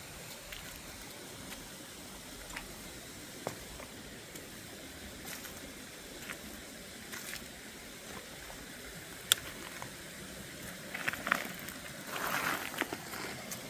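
Steady background rush of flowing water, with scattered sharp clicks and a burst of crackling near the end.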